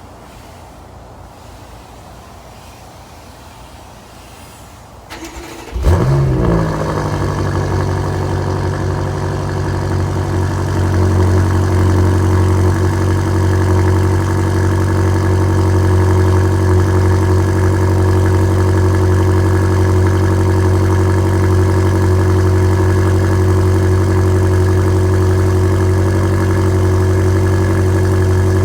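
BMW M5 Competition's twin-turbo V8 cold-starting: it catches suddenly about six seconds in with a loud flare of revs, then settles into a steady, high cold-start idle.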